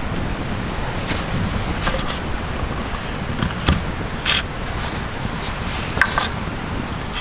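Wood campfire crackling: a handful of sharp, irregular pops over a steady low rumbling noise.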